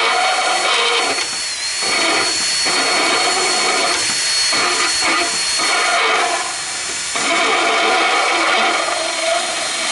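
Cordless power tool with a deburring bit running at high speed while cutting the mower hood's grille, its sound dipping briefly several times.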